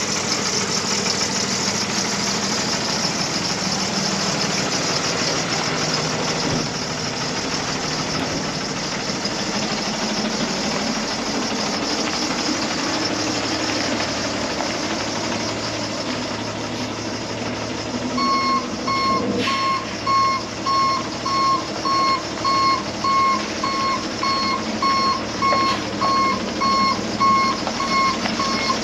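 Box truck's diesel engine running steadily. About 18 seconds in, a reversing alarm starts beeping at an even pace, a little more than once a second: the truck is backing up.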